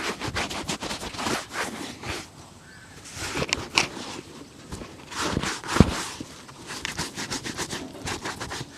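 Quick, irregular scraping strokes of shoe shining, a brush or cloth working over a leather shoe, with one louder knock about two-thirds of the way through.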